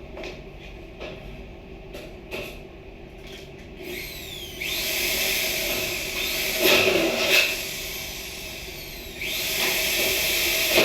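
A power tool runs in two bursts, the first about three seconds long starting just before the halfway point, the second starting near the end, after a few light knocks.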